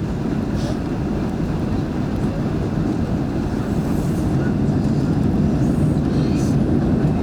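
Steady low rumble inside the cabin of a Boeing 737 airliner on approach: engine and airflow noise, swelling slightly about halfway through.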